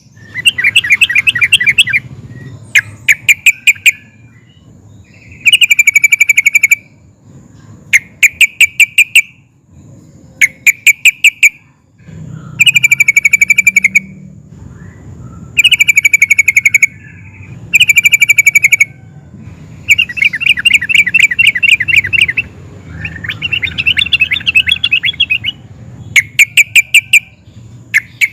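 Yellow-vented bulbul (trucukan) singing: loud, rapid bubbling phrases of chirped notes, each lasting a second or two, repeated with short pauses throughout.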